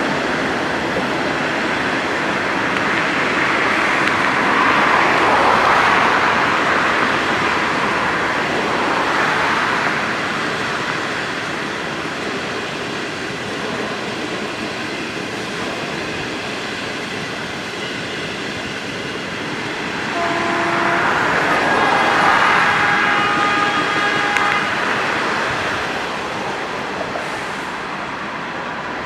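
A train running past on the track, a steady rush of wheel and rail noise that swells twice. About two-thirds of the way through, several steady high tones sound together for a few seconds over the rumble.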